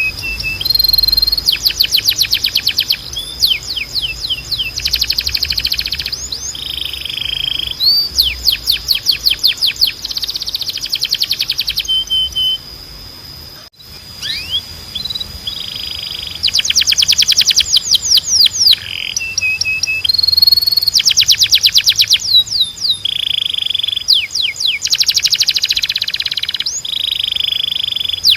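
Timbrado canary singing runs of rapid repeated notes and fast trills, one phrase after another, with a brief pause about halfway. A steady high-pitched tone runs underneath.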